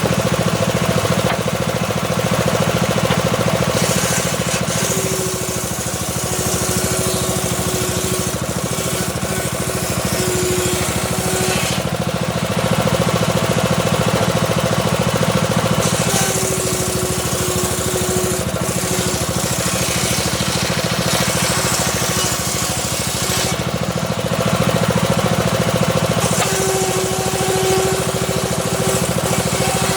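A homemade engine-driven circular saw runs steadily while it rips a small teak log. Three times the blade takes the wood, and a hiss of cutting and a steady singing tone rise over the engine drone.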